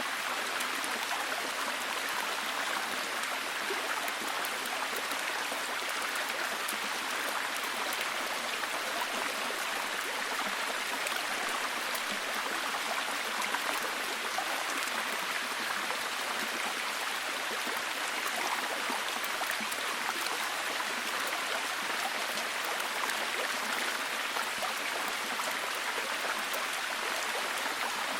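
Steady heavy rain, an even hiss of dense drops with fine scattered patter.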